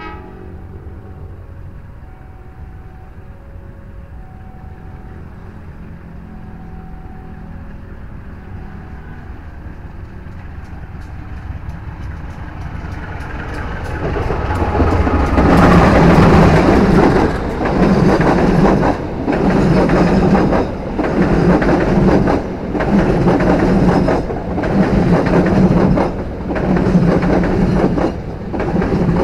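Passenger train coach bogies running over a turnout's switch rails. The sound builds as the train approaches, then settles into a loud rhythmic clickety-clack, surging each time a pair of bogies crosses, about every one and a half to two seconds, coach after coach.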